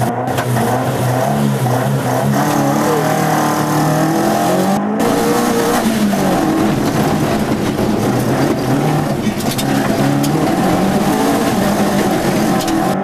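Mk1 Ford Escort rally car's engine, heard from inside the cabin, revving hard with its pitch climbing and dropping again and again as the car is driven flat out. A deep rumble joins about five seconds in.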